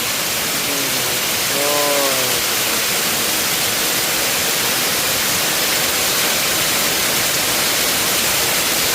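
Hailstorm: hail coming down hard, a loud, steady, dense hiss.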